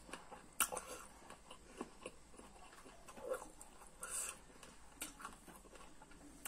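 Close-up chewing and lip smacking of a person eating chicken curry by hand, a string of sharp wet mouth clicks, the loudest about half a second in, and a short breathy rush a little after four seconds.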